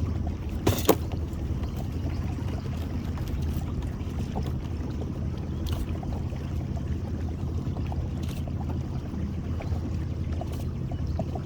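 Boat motor idling with a steady low hum while the trotline is run, with one sharp clack about a second in and a few faint clicks later.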